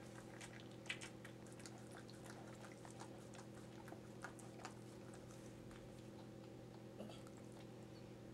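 Faint, irregular wet clicks and smacks from the whelping Bichon Frise and her newborn nursing puppies, over a steady low hum.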